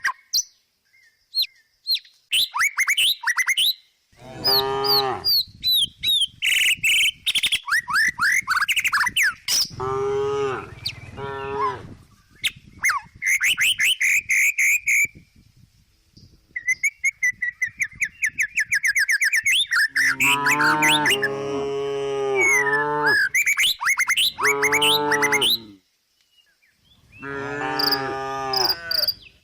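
Cow mooing in a series of short calls, in several groups, with birds chirping and trilling in the gaps between them.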